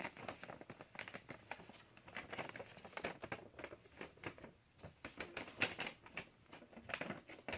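Sheet of paper being handled and folded: irregular rustling and crinkling with short crackles, a little louder around the middle and near the end.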